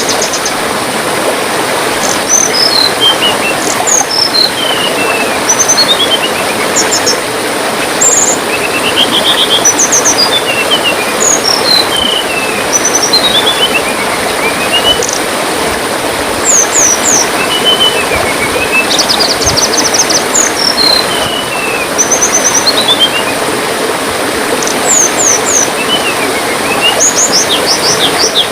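A songbird singing over steadily trickling water: repeated runs of short whistled notes falling in pitch, with quick high trills in between.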